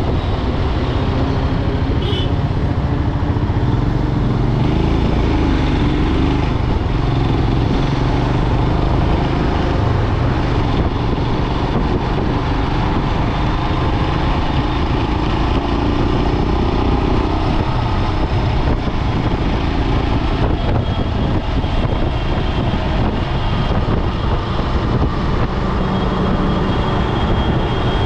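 Motorcycle running at a steady speed on the road, its engine mixed with wind and road noise.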